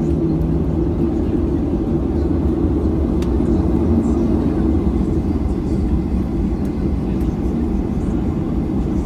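Cabin noise inside a Boeing 737-800 after landing: a steady, low rumble from the CFM56 engines at idle and the airframe as the aircraft taxis.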